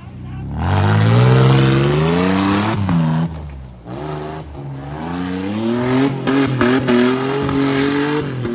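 Off-road competition 4x4's engine revving hard under load. Its pitch climbs, drops and climbs again several times, then rises steadily through the second half with a few brief stutters in the throttle.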